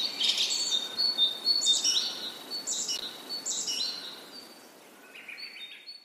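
Bird chirping: a string of short, high tweets about twice a second, dying away near the end.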